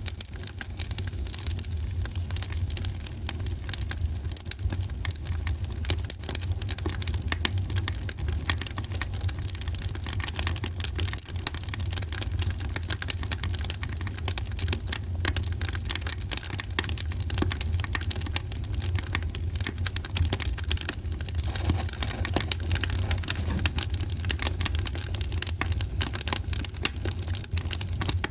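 Wood fire in a fireplace crackling: many small, irregular pops and snaps over a steady low rumble.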